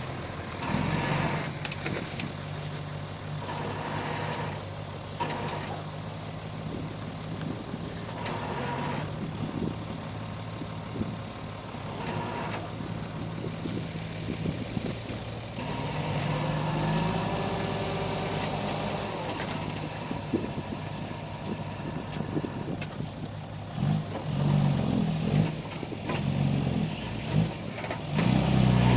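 Komatsu D31P crawler bulldozer's diesel engine running steadily, its pitch rising and falling partway through as the throttle changes, and getting louder and choppier near the end.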